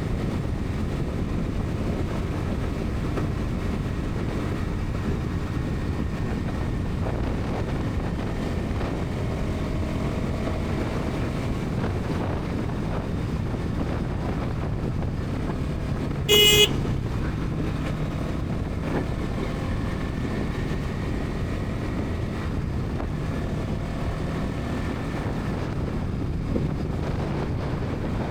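Bajaj Pulsar NS 200's single-cylinder engine running steadily at highway cruising speed, mixed with road and wind noise. A little past halfway, a vehicle horn gives one short, loud honk lasting about half a second.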